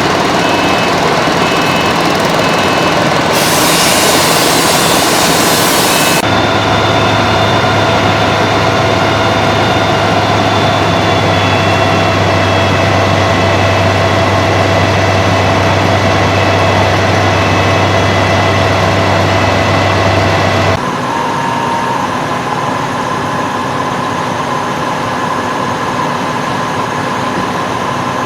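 Fire engine's diesel engine running steadily at the fire scene while it pumps water to the hose lines. A loud hiss lasts about three seconds near the start, and the sound changes abruptly about 21 seconds in, becoming a little quieter.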